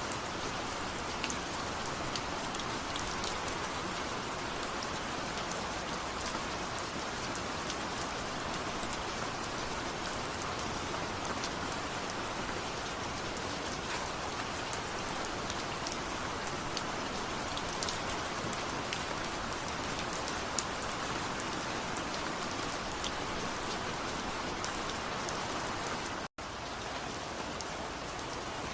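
Steady rain falling, an even hiss with many individual raindrops ticking through it. The sound drops out completely for a split second near the end.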